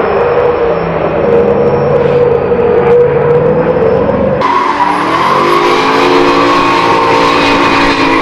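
Toyota Supra Mk4's 2JZ inline-six engine held at high revs through a drift, with tyre squeal. About halfway through, the sound cuts abruptly to another run in which the engine's pitch climbs.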